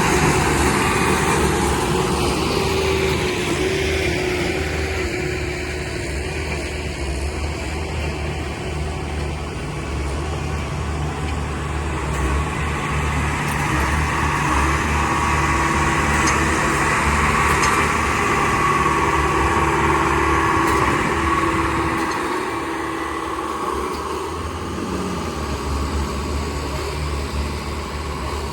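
Steady running of a diesel train: a low engine hum with fainter steady higher tones. The low hum drops away about 22 seconds in and comes back a few seconds later.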